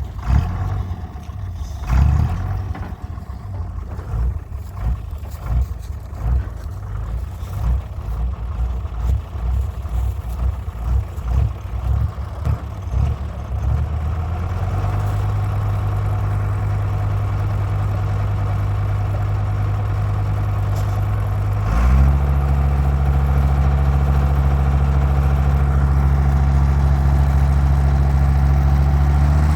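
Tractor engine running: uneven, pulsing chugging for about the first half, then settling into a steady drone. About 22 seconds in it revs up sharply and holds at the higher speed.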